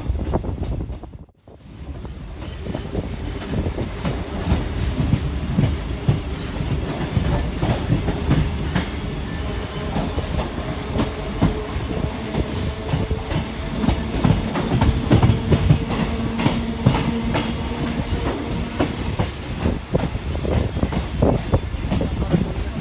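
Suburban electric local train running, its wheels clicking rapidly over rail joints over a steady rumble, with a faint hum for a while in the middle. The sound drops out briefly about a second in, then comes back.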